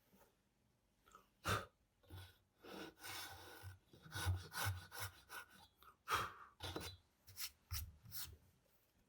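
Wood being worked by hand: scraping and rasping strokes broken up by several sharp knocks on wood.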